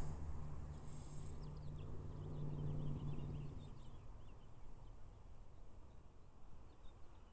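Faint outdoor ambience: quick, high bird chirps from about a second and a half in, over a low hum that fades out about three and a half seconds in.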